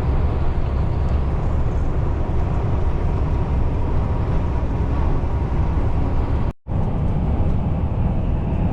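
Heavy lorry on the move: a steady low engine and road rumble, which cuts out for a moment about six and a half seconds in.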